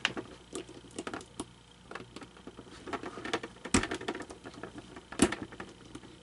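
Small plastic parts of an animatronic figure's mouth mechanism being handled and fitted, with irregular light clicks and taps and two sharper knocks, one in the middle and one about a second and a half later.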